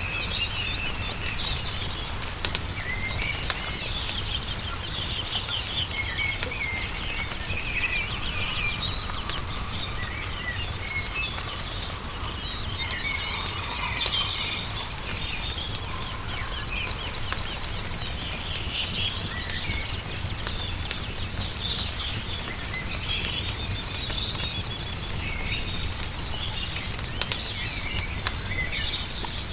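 Many small songbirds chirping and trilling, over the scattered pops and crackles of a wood fire and a steady low rumble.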